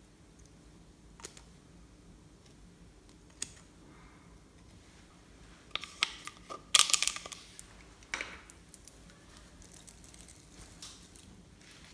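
Slime being handled and mixed by hand: scattered sticky clicks, then a run of louder crackling squishes about six to eight seconds in.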